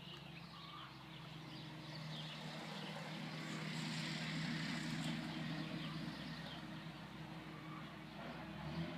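A steady low mechanical hum, with a rush of noise that builds to a peak about halfway through and then fades again.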